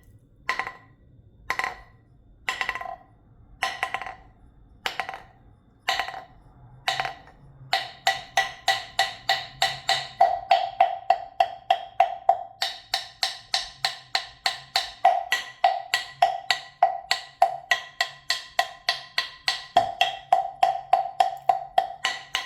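Wooden percussion struck by hand, each knock with a clear pitch: slow, spaced strikes about once a second, then from about eight seconds in a steady quick beat of roughly four strikes a second.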